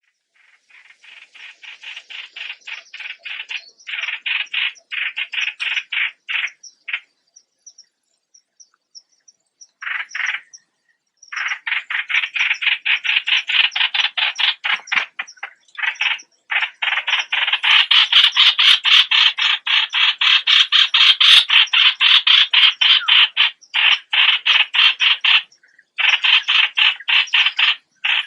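Streak-eared bulbul calling: rapid runs of short, harsh repeated notes, about four or five a second. The calls fade in over the first few seconds, stop for a few seconds, then go on louder and almost without a break.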